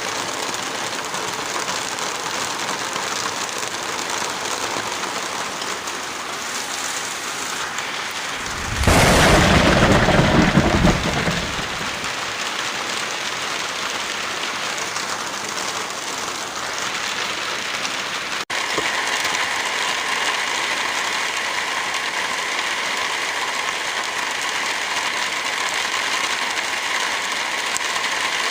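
Steady heavy rain, with a loud rumble of thunder about nine seconds in that lasts around three seconds. The rain cuts out for an instant two-thirds of the way through and comes back with a slightly different sound.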